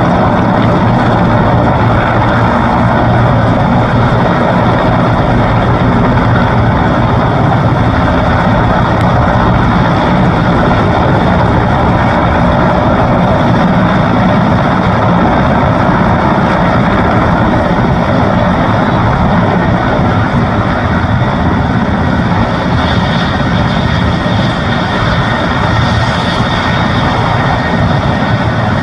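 Mil Mi-17 helicopter's twin turboshaft engines and rotor running loud and steady, a deep rumble with a high turbine whine that grows a little stronger near the end.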